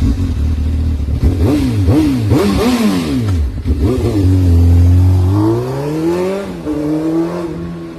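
Motorcycle engine, just started, revved in several quick blips that rise and fall. It is then held at a steady higher speed for about a second and a half, climbs once more, and drops back to idle near the end.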